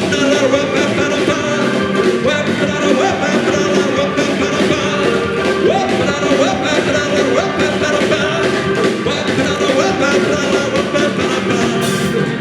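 Live rock band playing a loud, dense stretch of music with sliding notes over the full band.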